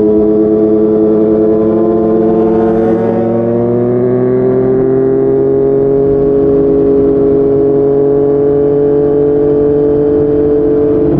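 Yamaha MT-09's inline three-cylinder engine through a Yoshimura R55 slip-on exhaust, running under way at steady revs. Its pitch climbs gradually a few seconds in, then holds steady.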